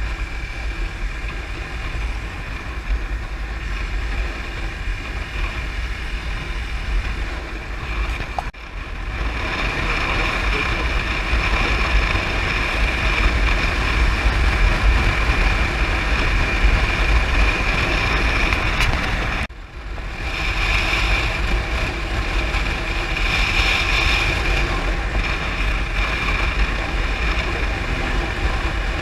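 Single-cylinder Hero Xpulse motorcycle cruising at highway speed: a steady engine drone mixed with heavy wind rush on the microphone. The sound drops out sharply twice, about eight and nineteen seconds in.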